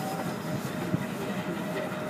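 Narrow-gauge steam train rolling along the track, heard from an open passenger car: a steady rumble and clatter of wheels and cars, with a sharp click about a second in.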